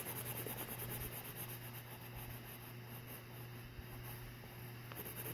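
Watercolour pencil scratching faintly on dampened watercolour paper in quick, repeated short strokes.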